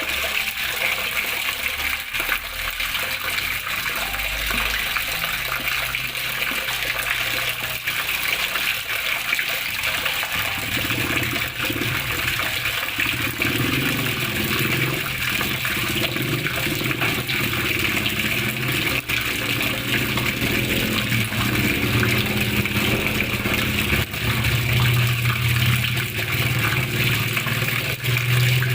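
Steady splashing of flowing water, a continuous even rush, with a deeper low rumble joining about ten seconds in.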